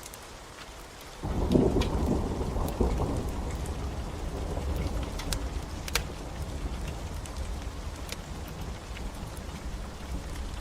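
Rain falling steadily with the sharp pops of a crackling wood fire; about a second in, a deep rumble of thunder starts, loudest at first and slowly fading.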